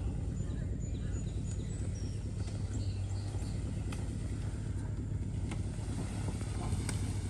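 Pickup truck engine running steadily under load while the truck tries to climb a hill on bald tyres, with scattered light clicks and knocks over the drone.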